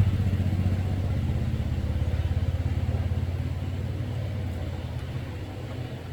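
An engine running with an even, rapid beat that slowly fades over the few seconds.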